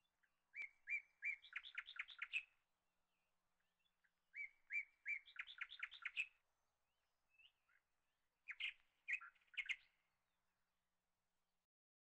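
A songbird singing three phrases a few seconds apart, each a few spaced notes running into a quick series of notes; the third phrase is shorter.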